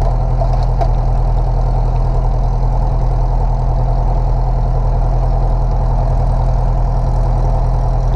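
Light aircraft's piston engine idling steadily at about 1,000 RPM, a rapid, even low pulsing drone heard from inside the cabin.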